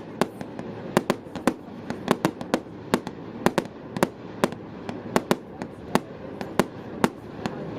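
Fireworks going off in an irregular run of sharp bangs and cracks, about three a second.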